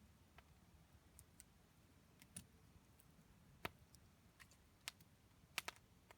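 Wood campfire crackling faintly: scattered sharp pops at irregular intervals, the loudest near the end.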